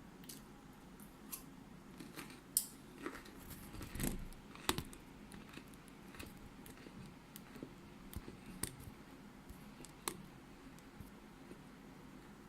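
A person eating close to the microphone: scattered crisp crunches and small clicks of chewing, a few louder ones about a third of the way in.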